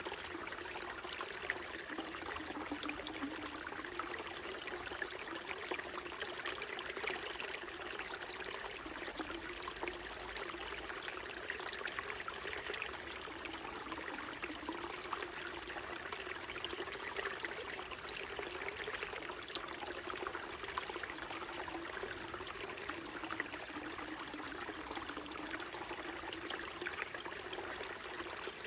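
Small mountain stream trickling and burbling steadily over rocks.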